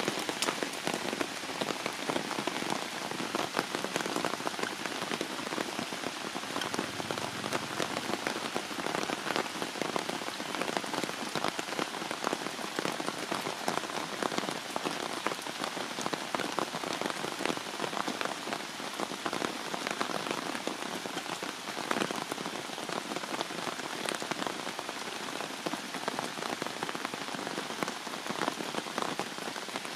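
Heavy rain falling steadily: a dense, even hiss of countless drops pattering on surfaces.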